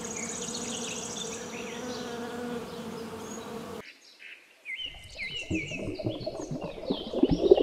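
Honeybee buzzing steadily, with birds chirping in the background. About four seconds in, the sound cuts off suddenly; after a short gap come irregular low rustling sounds and more bird chirps.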